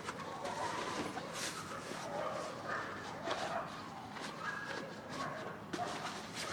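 Canvas narrowboat canopy being taken down and handled: rustling fabric with scattered sharp clicks and knocks from the frame and fittings, and a few short high whines.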